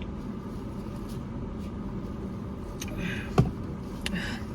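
Steady low hum of car or road traffic. About three seconds in come brief rustling and a sharp knock, with another short rustle near the end.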